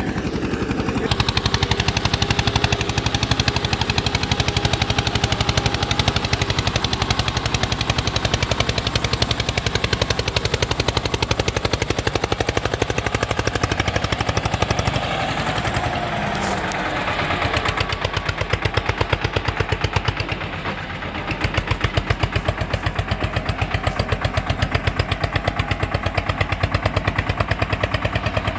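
Eicher 242 tractor's diesel engine running hard while pulling a fully loaded trolley, a rapid steady chatter of exhaust beats. It eases off briefly about two-thirds of the way through, then picks up again.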